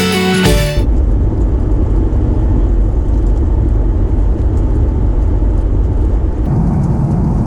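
Background music ending about a second in, then the steady low rumble of a Malaysia Airlines Boeing 737's engines and airflow heard inside the cabin. Near the end the rumble shifts to a slightly different, fuller tone.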